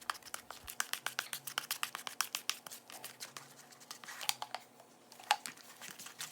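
Faint, rapid, irregular clicks and scraping of fenugreek powder and water being stirred into a thick paste in a bowl, with a couple of sharper clicks near the end.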